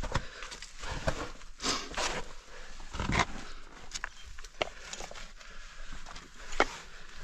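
A caver clambering over rock in a cave passage: irregular scrapes and knocks of body and gear against rock, with no steady rhythm.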